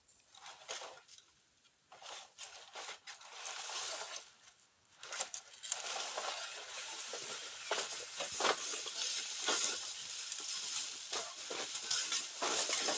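Dry leaves and undergrowth rustling and crunching in irregular spurts, thickening into near-continuous crackling after about five seconds.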